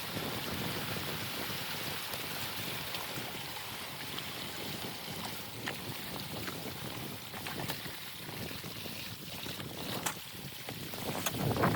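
Steady rush of moving water, with a few sharp knocks or splashes scattered through it and a low rumble swelling near the end.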